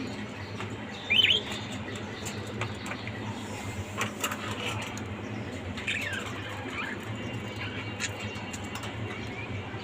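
Small pet parrots chirping: a few short, sharp calls, the loudest about a second in and one falling call near the middle, with scattered light clicks over a steady low background hum.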